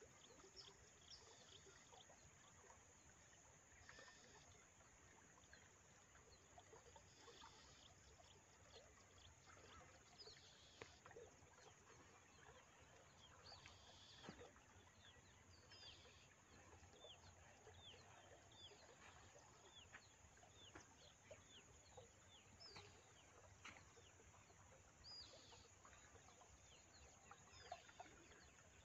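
Very faint outdoor ambience with many short, falling bird chirps, more frequent in the second half, and a few soft clicks.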